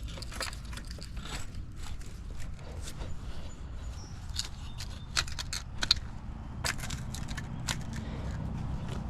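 Irregular crunching and scraping of dirt and stones over a steady low rumble of heavy-equipment engines running.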